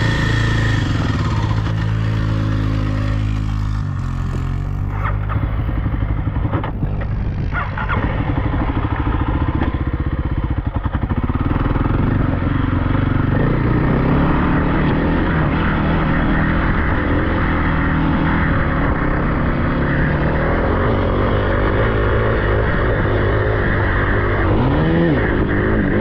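Off-road vehicle engine running under changing throttle, its pitch stepping and gliding up and down, with a drop about four seconds in and a quick rev near the end.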